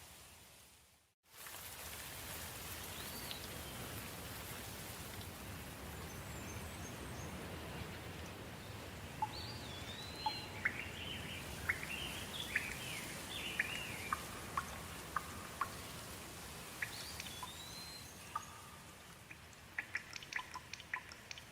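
Steady gentle rain with birds calling and singing through it, and sharp drips near the end. The sound cuts out briefly about a second in.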